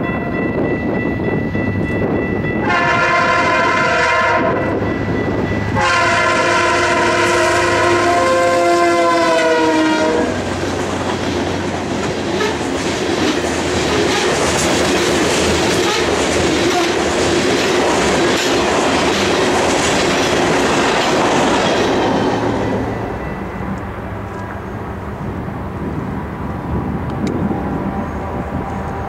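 Freight train locomotive horn sounding in several blasts as the train approaches, the last and longest one dropping in pitch as the locomotive passes. Then a long string of covered hopper cars rolls by with steady wheel-on-rail noise, which gives way to a much quieter stretch near the end.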